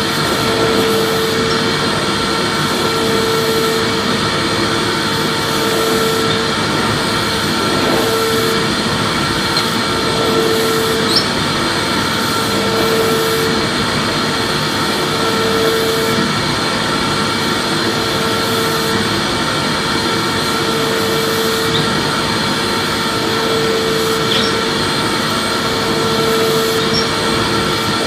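Vacuum cleaner motor running steadily, a loud even rushing whine with a hum that swells and fades about every two and a half seconds.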